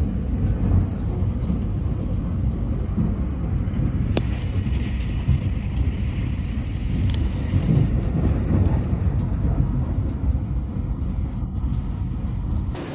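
Electric limited express train running, heard from inside the carriage: a steady low rumble of wheels on the rails, with two short clicks about four and seven seconds in.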